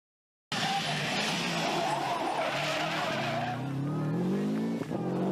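Subaru Impreza GC8 rally car's flat-four engine under hard acceleration, its pitch rising steadily through the second half with a brief dip near the end like a gear change. Before that, a loud rush of tyre noise dominates.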